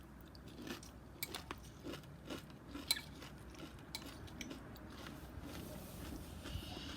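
Close-miked chewing of crunchy cereal in milk, with irregular crunches and a few sharp clicks of a spoon against the bowl.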